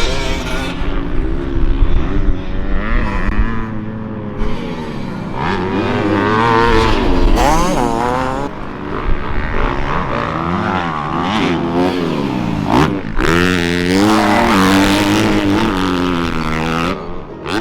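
Dirt bike engine revving up and down again and again as the rider goes on and off the throttle, its pitch rising and falling over and over.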